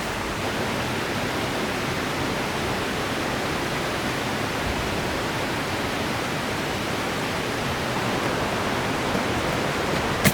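Steady, even rush of a flowing mountain river, with one sharp click near the end.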